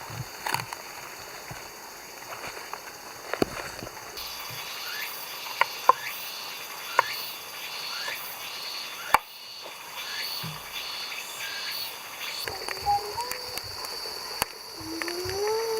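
Steady high-pitched insect chirring, with a few sharp knocks scattered through it and a voice gliding up and down near the end.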